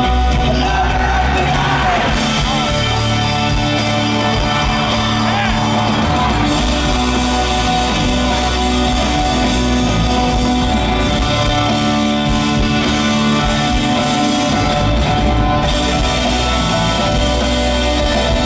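Live folk-rock band playing an instrumental passage of the song in a large hall, loud and steady with sustained chords over a driving low end.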